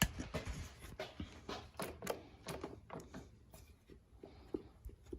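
Irregular light clicks and knocks of the throttle plate on an OMC Viking 15 hp outboard being wiggled by hand: the plate has play in it.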